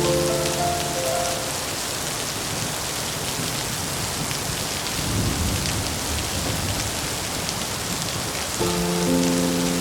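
Steady heavy rain, with a low rumble of thunder swelling about halfway through. Soft held musical notes fade out at the start and come back near the end.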